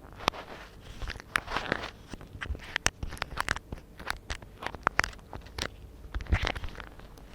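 Rubber-gloved fingers rustling, tapping and scratching close up on a microphone: irregular sharp taps, several a second, among short crinkly rustles.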